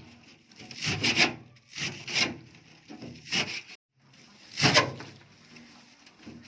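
Fresh berseem (Egyptian clover) being chopped by hand with a blade: a series of uneven cutting strokes, one every half second or so, with a short break about two-thirds of the way through.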